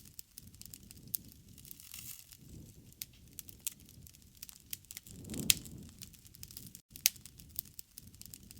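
Wood fire crackling: irregular sharp snaps and pops over a low rumble of burning, with one louder pop about halfway through.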